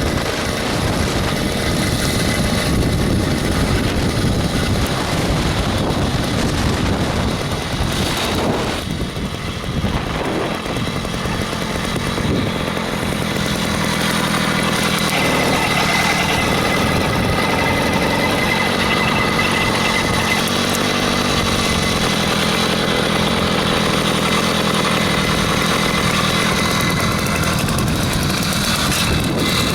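66cc two-stroke engine of a motorized bicycle running. It dips briefly about nine seconds in, then runs more steadily from about fourteen seconds on.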